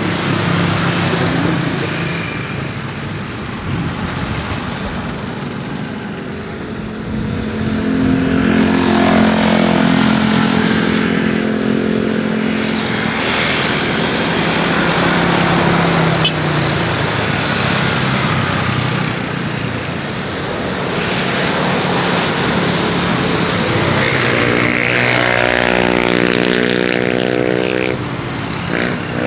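Engines passing by, a steady hum that swells and fades several times, with a pitched drone rising and falling in each pass.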